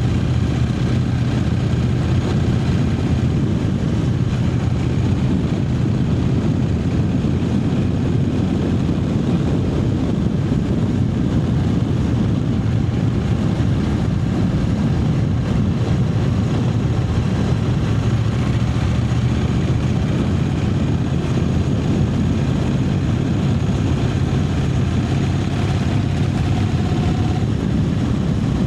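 Triumph Speed Twin 900's parallel-twin engine running at steady revs while cruising, with a constant rush of wind and road noise over it.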